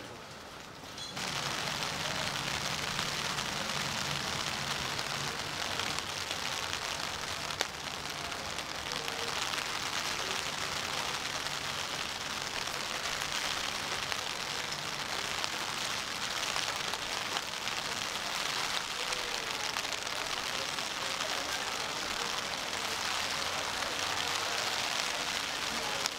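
Steady rain falling on wet pavement, an even hiss that starts abruptly about a second in, with a faint low hum underneath.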